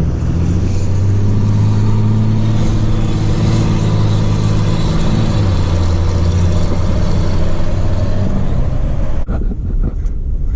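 Straight-piped Cummins diesel engine running loud and steady under throttle, then letting off about nine seconds in.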